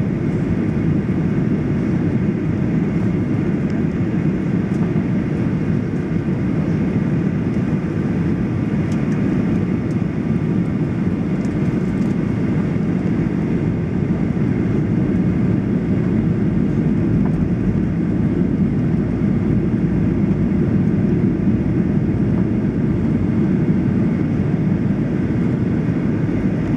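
Steady cabin noise inside a Boeing 737-800 on approach: an even, low rumble of the CFM56 engines and the airflow over the fuselage.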